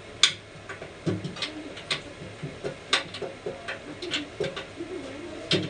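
Scattered sharp metallic clicks and taps from parts and tools being handled on a dough divider, about one a second, over a low, wavering cooing sound.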